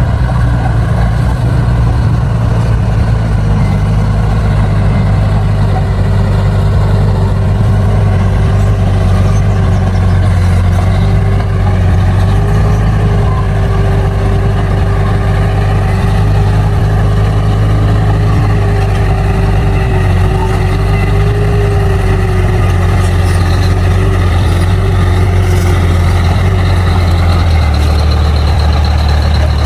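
Bulldozer's diesel engine running steadily and loudly, with a faint wavering whine through the middle. The engine note shifts lower near the end.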